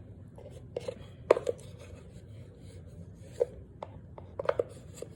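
A string of short, sharp clicks and crackles at irregular intervals, close to the microphone, the loudest about a second in.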